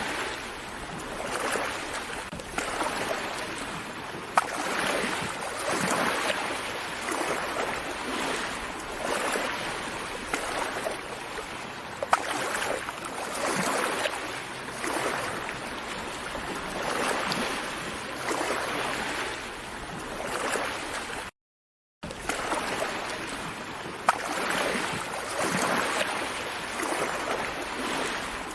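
Small sea waves washing gently onto a shore, a continuous rush of water that swells and fades every second or two. The sound cuts out to silence for under a second about 21 seconds in.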